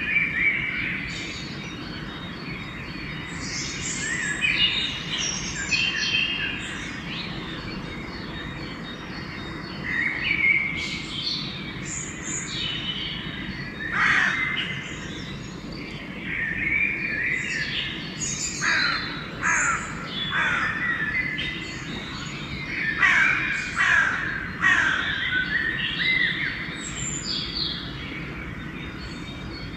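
Dawn chorus of songbirds singing and chirping, with crows cawing several times among them, over a steady low background rumble.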